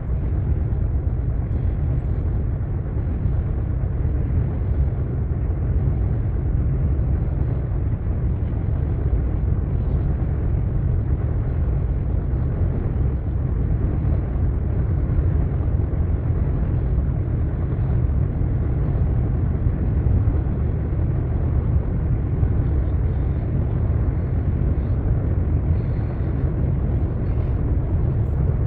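Steady low rumble of a freight train of loaded double-stack container well cars rolling by, unchanging throughout.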